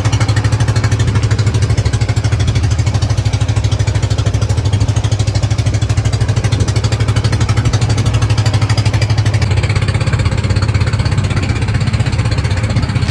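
Outrigger boat (bangka) engine running loudly under way, a steady low drone with a rapid, even pulsing beat.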